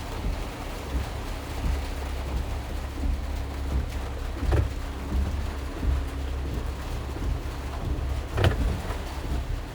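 2020 RAM Promaster cargo van driving on a wet road in heavy rain: a steady low road and engine rumble with a faint hum and rain noise. Two sharp knocks sound about four and a half and eight and a half seconds in, the second the louder.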